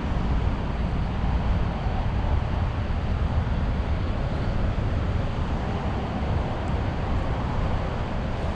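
Steady city street ambience: a continuous low rumble of road traffic, heaviest in the bass, with no distinct individual events.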